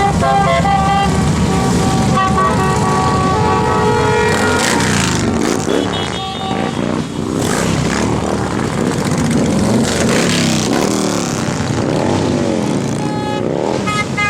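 Motorcycles riding past, their engines rumbling, with one machine after another rising and falling in pitch as they rev and go by.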